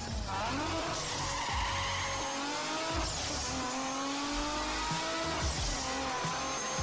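Intro sound effect of a sports car engine accelerating, its pitch climbing in several long rises, over intro music with deep booming hits.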